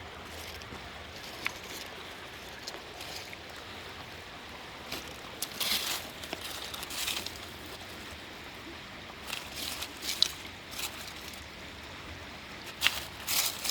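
A steady, stream-like rush runs underneath. Over it come bursts of crunching and scraping, like stones, grit or dry leaves being disturbed by hand or underfoot: a cluster about five seconds in, more around ten seconds, and the loudest near the end.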